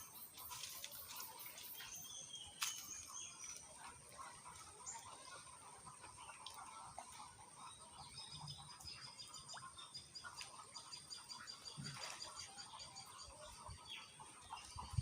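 Faint outdoor ambience of small birds chirping, with a run of rapid repeated chirps in the second half, over a steady high-pitched whine. There is a single sharp click a few seconds in.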